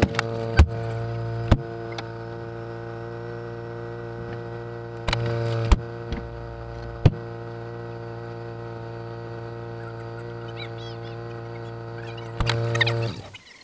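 Audi A4 B5 1.8T turbocharged four-cylinder engine idling with its exhaust open at the turbo, because the catalytic converter has broken off at the turbo flange. It makes a steady droning hum, with a few sharp clicks and a louder surge about five seconds in and again near the end, and cuts off abruptly just before the end.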